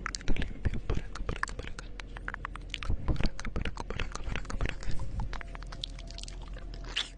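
ASMR mouth sounds close on a 3Dio binaural microphone: a rapid, irregular run of wet clicks and smacks of lips and tongue.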